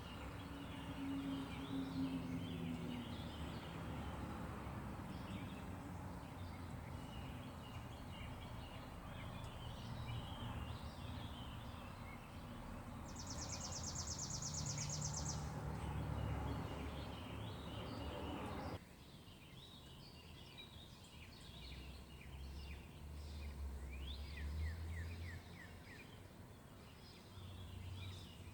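Heavy trucks rumbling at a distance, a steady low engine drone under a wide wash of noise that cuts off suddenly about two-thirds of the way through, leaving a fainter rumble. Birds chirp throughout.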